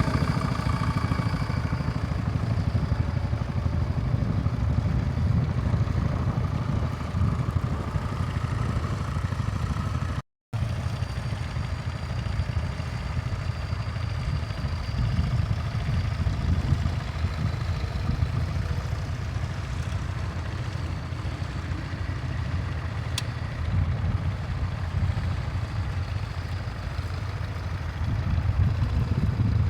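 Tractor engine running steadily under load while ploughing, with a steady low rumble that drops out for an instant about ten seconds in.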